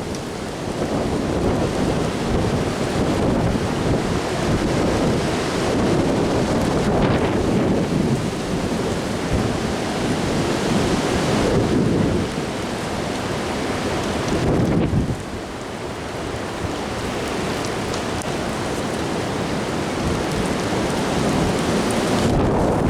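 Strong gusting wind rushing and buffeting the microphone with a low rumble, rising and easing in waves and dropping off suddenly about twelve and fifteen seconds in.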